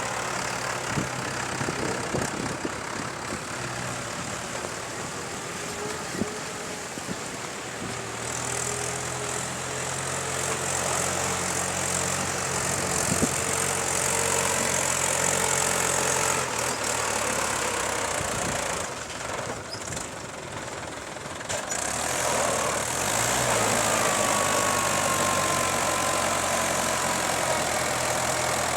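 Heavy diesel machinery engine running steadily. It gets louder, as if working harder, about eight seconds in, eases off briefly around twenty seconds, then picks up again, with a falling whine near the end.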